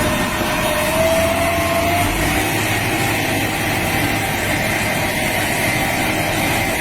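A vehicle running steadily: a continuous noisy rumble with a faint whine that rises slightly in pitch and then holds.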